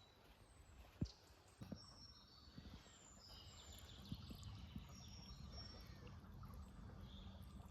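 Faint bird chirps, short high notes coming and going, over a low rumble. A sharp knock comes about a second in and a softer one shortly after.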